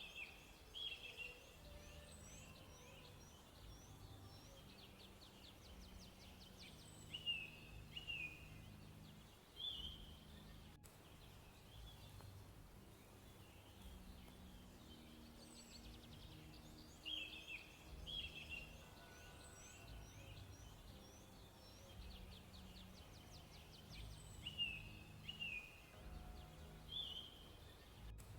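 Faint birdsong: short chirps and quick falling notes repeating in groups every few seconds, over a low steady background rumble.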